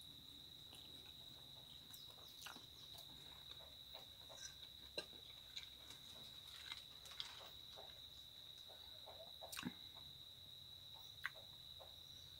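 Faint, soft chewing and mouth clicks from eating spaghetti, with scattered sharper ticks. A steady, high insect buzz runs underneath.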